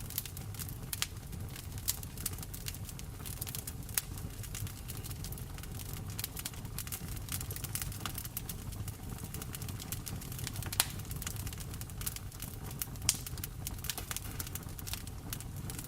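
Wood fire in a fireplace crackling, with irregular sharp snaps and two louder pops about 11 and 13 seconds in, over a steady low rush of rain.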